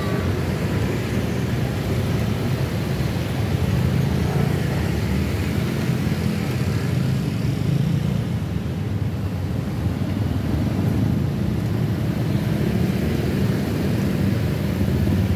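Steady low rumble of passing vehicles at a level crossing, with no breaks or separate knocks.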